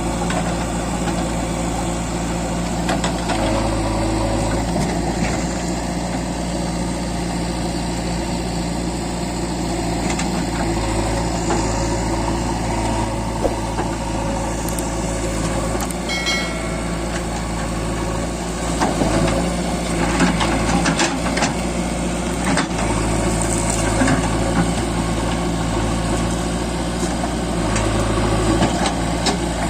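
The diesel engine of a JCB 3DX backhoe loader runs steadily. A short beep sounds about halfway through, and from about two-thirds of the way in the engine gets louder and more uneven, with scattered clunks.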